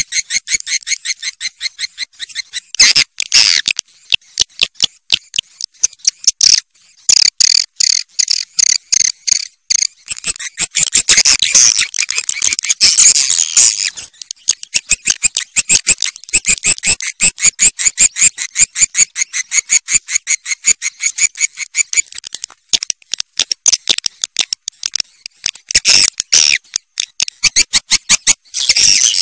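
Swiftlet calls played as a lure sound: fast runs of high, clicky chirps, with denser twittering chatter breaking in a few times, the kind of call recording used to draw swiftlets into a nesting house.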